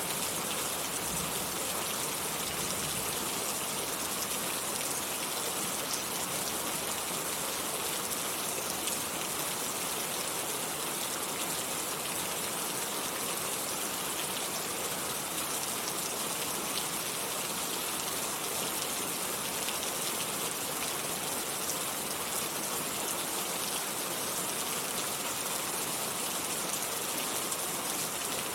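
Steady rainfall: an even hiss of rain with faint scattered drop ticks, unchanging throughout.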